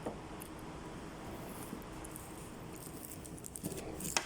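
Quiet sounds of eating from a meal: soft small clicks and rustles, with one sharp click near the end.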